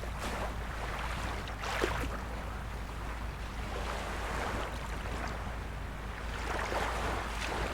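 Small waves of a calm sea lapping and splashing, with slightly louder washes about two seconds in and again near the end, over a steady low rumble.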